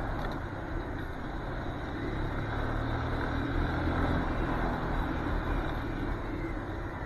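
Steady engine and road noise of a moving vehicle: a low continuous hum under a broad hiss, with no distinct events.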